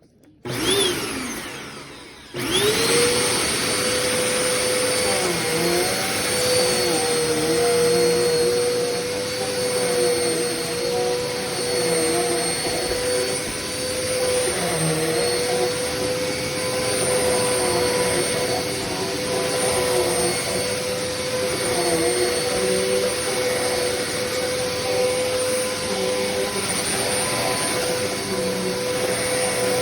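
Hoover Complete Performance bagged vacuum cleaner switched on for the first time. The motor comes on, fades briefly, then comes back up about two seconds in and runs steadily with a high whine.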